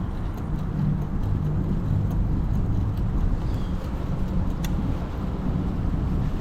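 Steady low rumble of street traffic and road noise, heard from a moving bicycle.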